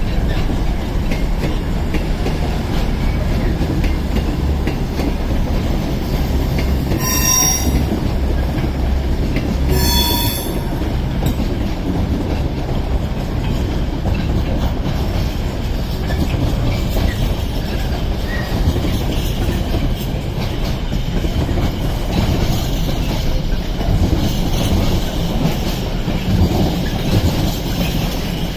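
A freight train passing and a Class 221 Super Voyager diesel unit pulling away make a steady rumble of engines and wheels on rail. Two short high wheel squeals come about seven and ten seconds in.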